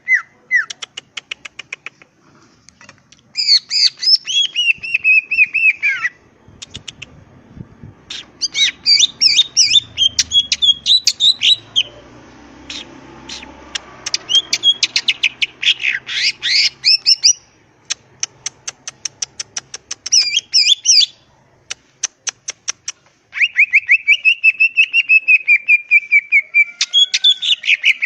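Green leafbird (cucak ijo) singing loudly in full song. It gives bursts of fast chattering notes and trilled phrases of quick sweeping whistles, broken by short pauses.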